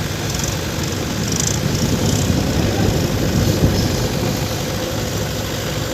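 Heavy diesel engine of a tractor or earthmover running steadily, growing louder for a couple of seconds in the middle as it works.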